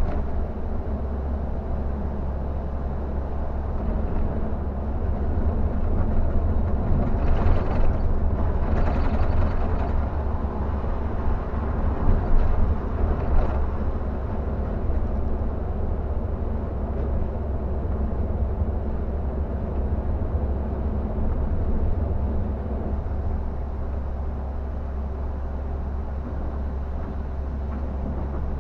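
Scania K360 bus on the move on a wet road: a steady low engine drone with tyre and road hiss, swelling into a louder hiss about seven to ten seconds in.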